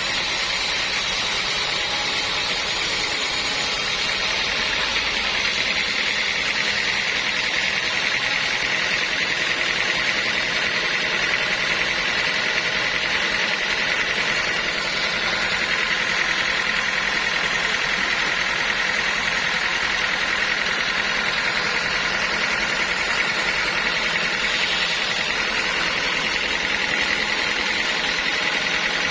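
Sawmill saw running steadily as it cuts through a large log, a continuous mechanical whine and hiss with no breaks.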